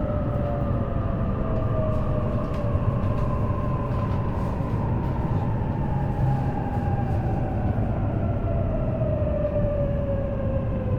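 E233 series electric train running, heard from inside the car: a steady low rail rumble with the traction motor whine falling slowly in pitch as the train slows.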